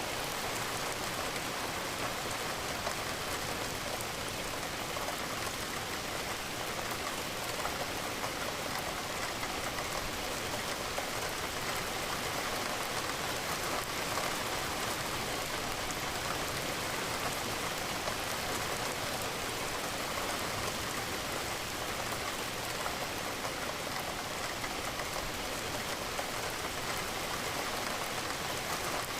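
Steady rain falling, with raindrops pattering on a window.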